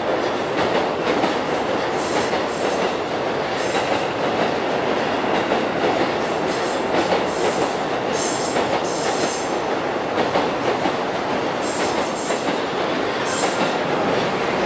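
Electric commuter train running past on elevated track: a steady rumble of wheels on rails, with short high squeals coming and going every second or so.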